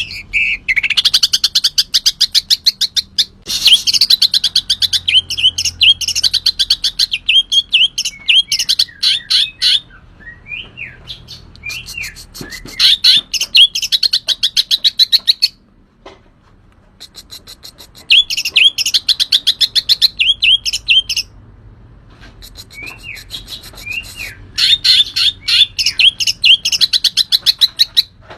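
Green leafbird (cucak ijo) singing vigorously: loud bouts of rapid, chattering high notes a few seconds long, broken by short pauses filled with slower rising and falling whistles.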